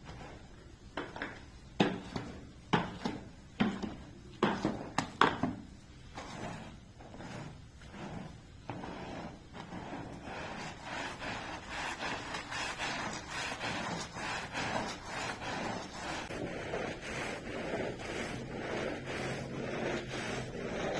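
A carpet being scrubbed by hand with a stiff brush. It starts with several sharp knocks, then about six seconds in settles into steady rhythmic scrubbing strokes, roughly two a second.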